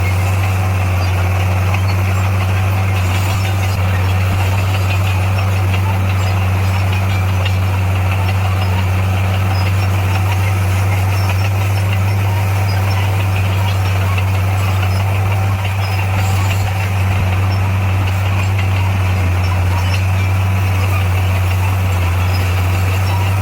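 Bulldozer's diesel engine running at a steady speed with a deep, even hum.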